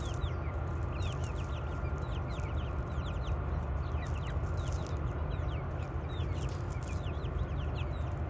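Chickens chirping and clucking: many short, high, falling chirps, several a second, over a steady low rumble.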